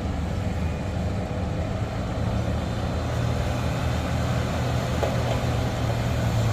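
A heavy vehicle's engine running with a low steady hum, growing slightly louder toward the end.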